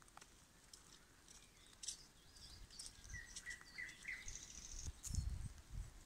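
A songbird singing, with a few short whistled notes that slide in pitch, then a fine buzzy trill. Near the end, low buffeting on the microphone takes over as the loudest sound.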